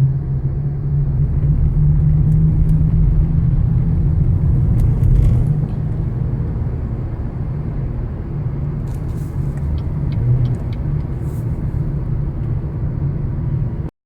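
Loud, steady low rumble that cuts off abruptly near the end.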